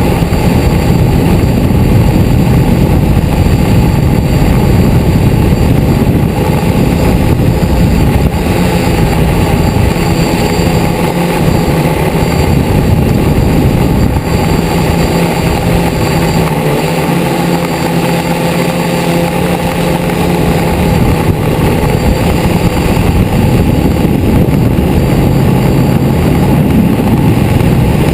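DJI Flame Wheel multirotor's electric motors and propellers running at a steady, loud hum. The pitch shifts a little partway through.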